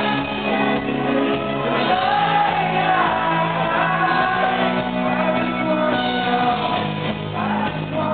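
Live pop-rock band playing with lead singing, and the crowd shouting and singing along in a large hall.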